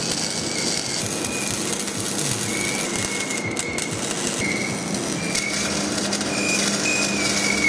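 MIG welder crackling steadily as steel exhaust pipe is welded, the sizzle swelling a little near the end, over a low steady hum.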